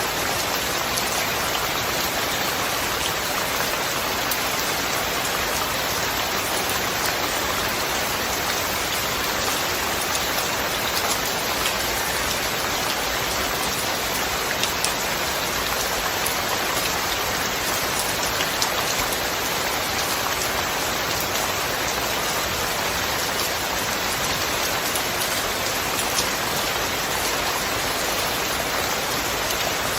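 Steady rain falling, an even hiss with the patter of individual drops landing.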